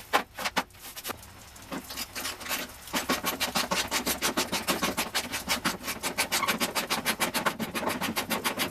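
Hand ratchet wrench working a fender bolt: a few scattered clicks, then from about three seconds in a fast, steady run of ratchet clicks, roughly ten a second.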